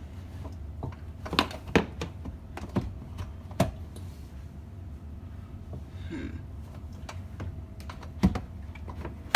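Irregular light plastic clicks and knocks from dishwasher parts being handled and worked loose by hand, with a faint scrape about six seconds in and a heavier knock near the end.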